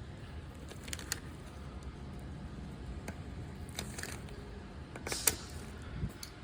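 A few scattered light clicks and taps of tools being handled, over a low steady background hum; the sharpest click comes about five seconds in.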